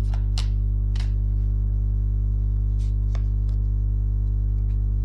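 A steady low electrical hum with its stacked overtones, unchanging throughout, with a few faint scattered ticks on top.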